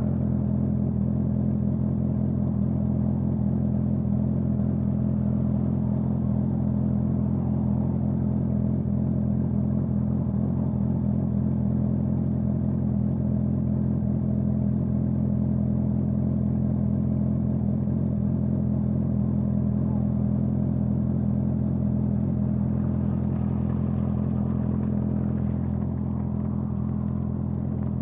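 Honda CBR650R's inline-four engine running through a Dominator GP full-system exhaust, holding steady revs with an unchanging note. Faint scratchy noise joins in during the last few seconds.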